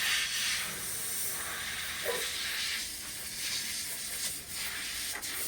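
A steady hiss, strongest in the high range, with a brief faint sound about two seconds in.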